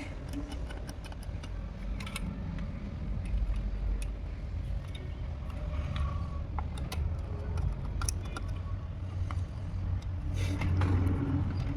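Scattered small clicks and clatters of hand-work, like fittings or screws being handled, over a steady low rumble that swells about ten seconds in.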